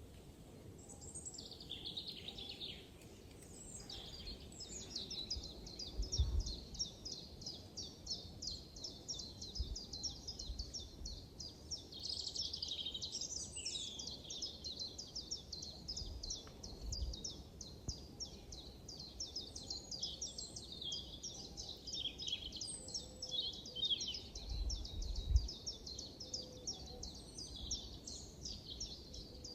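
Forest birdsong: rapid, high-pitched chirps repeated several times a second, overlapping into a continuous chorus, over a low rumble with a few short low thumps.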